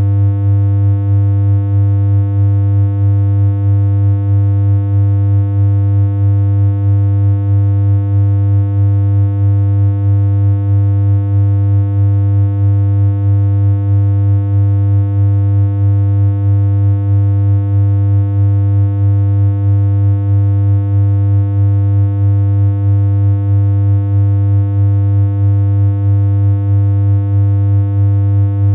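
A continuous synthesized hum made in BeepBox: one low, unchanging tone with a stack of overtones, with a slight regular pulse in its level.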